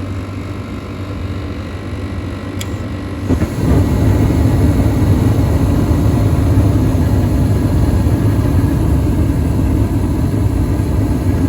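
Comfortmaker gas furnace in its startup sequence: a click, then about three and a half seconds in its draft inducer motor comes on and runs with a steady low hum.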